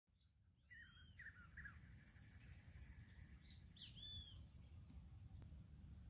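Birds calling with curving whistled notes, one group about a second in and another about three and a half seconds in, over a high short pip that repeats about twice a second and a low steady rumble.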